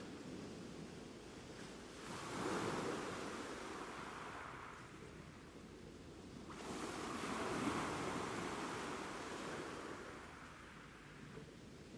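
Ocean waves breaking and washing up the shore: two waves, one surging in about two seconds in and another just past the middle, each swelling and then fading as the water draws back.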